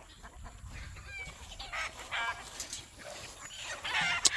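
Chickens squawking and clucking in short calls, from a hen being chased by a jungle fowl rooster. A sharp click comes near the end.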